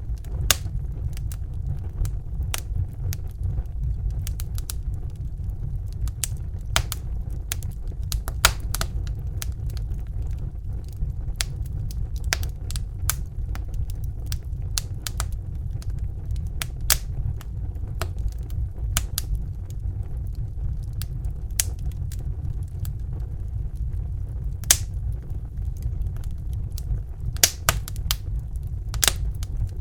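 Crackling fire: irregular sharp snaps and pops over a steady low rumble.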